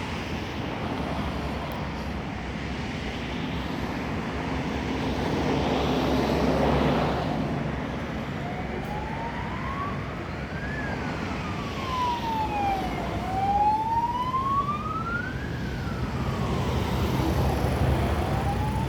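Road traffic running steadily. About halfway through, an emergency vehicle's siren starts a slow wail that rises and falls in pitch, each sweep taking about two seconds.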